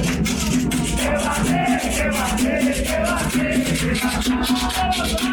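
Candomblé ritual music: voices singing a chant over a shaker rattle that keeps a steady rhythm.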